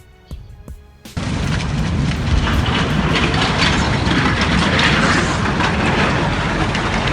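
A landslide starts abruptly about a second in and runs on as a loud, steady rushing roar, with a deep rumble under it.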